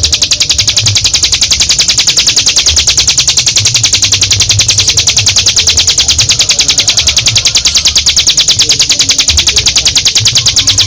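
Ciblek gunung (a prinia) singing its long, drill-like 'ngebren' trill: a very fast, even run of high notes, many per second, held without a break.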